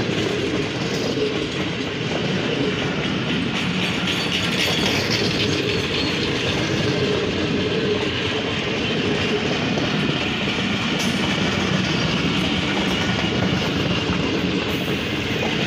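Passenger coaches of an express train passing close by at speed: a steady rumble and clatter of steel wheels on the rails.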